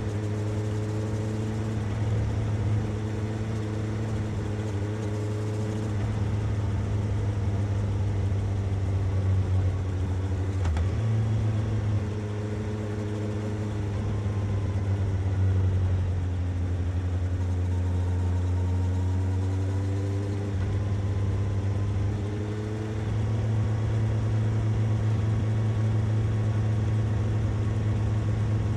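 Suzuki GSX-S750 inline-four motorcycle engine and exhaust running at a steady cruise, its pitch drifting slowly up and down, with a brief break about eleven seconds in.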